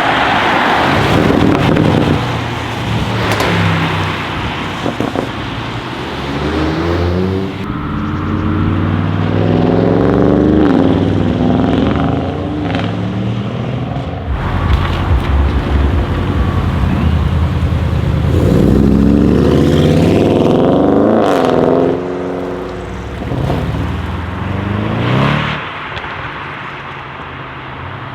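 Audi RS6 Avant C8's twin-turbo 4.0-litre V8 through catless downpipes with the particulate filter deleted, which makes it really loud, its revs rising and falling several times. A few sharp exhaust cracks come between the rev surges.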